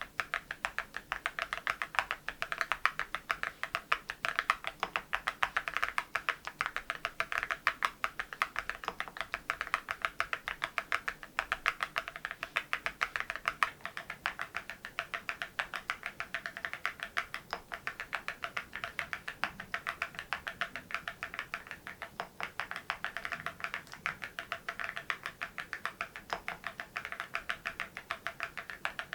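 Steady, fast typing on an MZ Y3 mechanical keyboard fitted with ceramic keycaps: a dense run of sharp key clacks, several a second.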